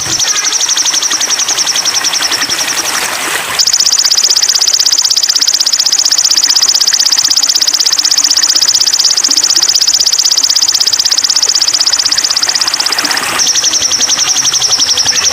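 Continuous high-pitched buzzing trill made of very fast even pulses, like a cicada or a bird's rattling song, played as bird-training audio. About four seconds in it jumps higher and louder, then drops back near the end.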